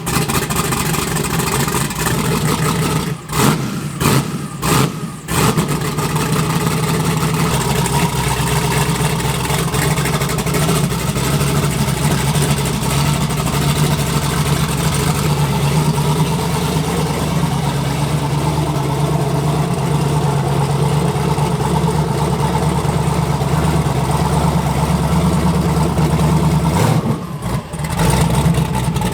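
Twin-turbo AMC Spirit drag car's engine running steadily, with a few short dips in the sound about three to five seconds in and again near the end.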